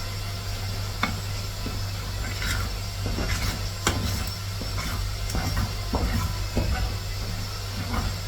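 A spoon stirring rice and coconut milk in a cooking pot: irregular scrapes and light knocks against the pot.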